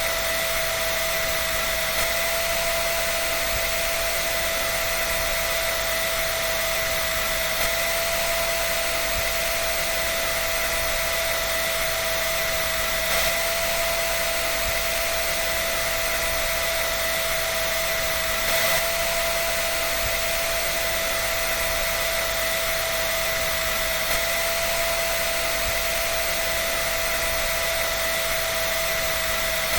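Hair dryer running steadily: an even rush of blown air with a constant whine over it.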